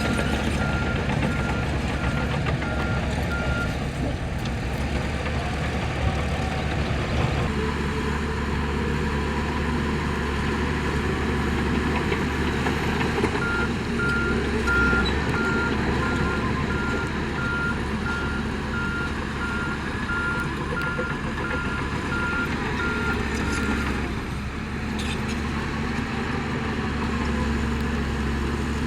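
Heavy diesel construction machinery running steadily at work, with a vehicle's reversing alarm beeping for the first few seconds and again through the middle stretch. The engine sound changes abruptly twice.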